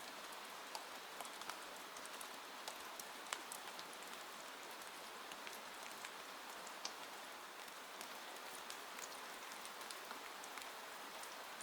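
Steady rain hiss mixed with a wood fire crackling: frequent small sharp pops over the hiss, one louder pop about three seconds in.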